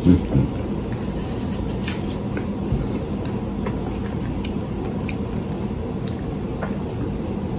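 Quiet eating sounds, with soft chewing and a few small clicks of food being handled, over a steady background hum.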